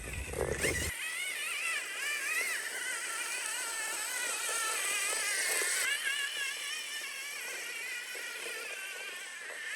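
Electric motor and geartrain of a 1/10-scale RC rock racer whining as it crawls over rocks, the pitch wavering up and down with the throttle.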